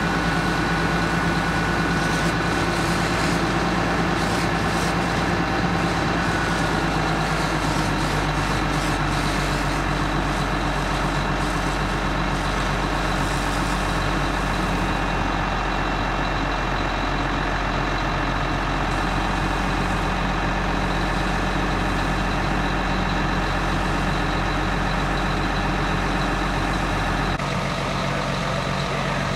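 Fire engine's diesel engine running steadily. Its note changes abruptly near the end.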